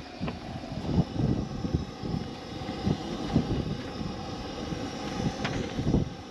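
Gusty wind buffeting the microphone: an irregular low rumble that swells and drops.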